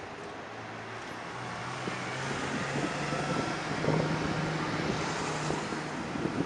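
Pagani Huayra's twin-turbo V12 running at low revs as the car pulls slowly past. The engine note rises a little in pitch and grows louder to a peak about four seconds in, then holds as the car moves off.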